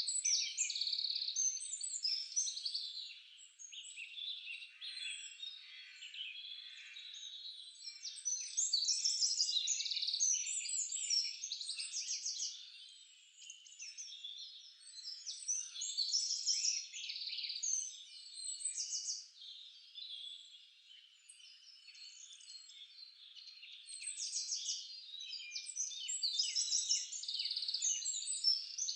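Several songbirds singing at once in a dense forest dawn-chorus-like mix of fast chirps and trills, high-pitched, swelling louder and falling back several times.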